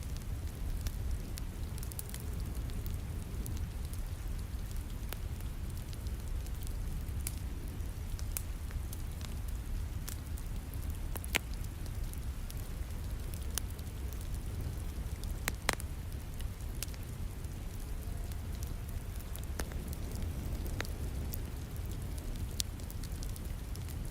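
Wood fire crackling with scattered sharp pops, the loudest about eleven seconds in and again around fifteen seconds, over a steady rain-like hiss and low rumble.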